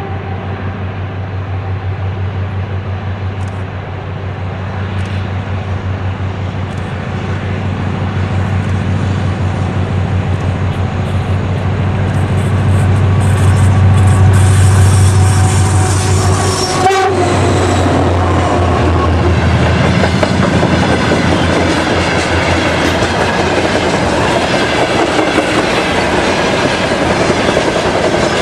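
2TE10M twin-section diesel locomotive with a freight train passing: its two-stroke opposed-piston diesel engines give a loud, low pulsing drone that grows louder as it nears. A short horn blast sounds about two-thirds of the way through, then the engine fades and the freight wagons roll by with a clickety-clack of wheels over rail joints.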